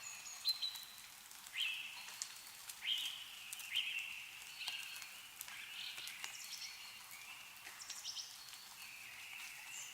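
Meltwater dripping from snow-covered trees in scattered sharp ticks, with birds giving short repeated calls, about one a second for the first few seconds, then more spread out.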